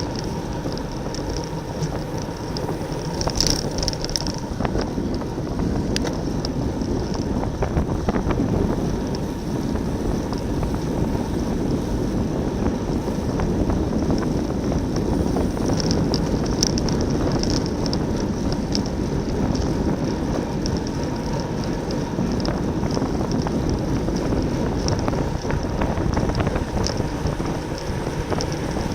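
Wind rushing over the microphone of a camera on a racing bicycle moving at speed in a criterium pack, with scattered short high ticks and rattles from the bikes.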